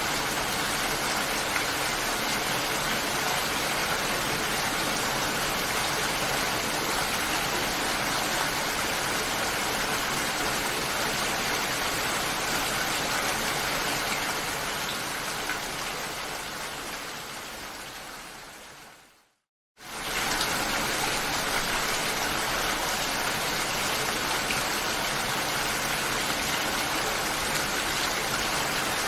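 Steady, dense rain hiss. About fifteen seconds in it fades away over a few seconds to a brief moment of silence, then cuts straight back in at full level, as at a loop point in the recording.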